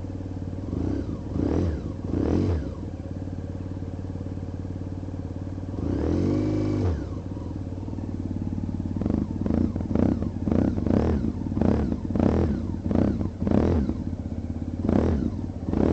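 Honda CBR600 F4i inline-four engine idling, with the throttle blipped in short revs, one longer rev about six seconds in, and a quick run of blips in the second half. It runs rough, like a two-stroke, which the owner takes for only a couple of cylinders firing.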